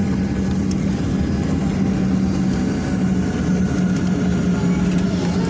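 Steady, loud drone of a Boeing 737-800's CFM56 jet engines, a deep rumble under a constant low hum.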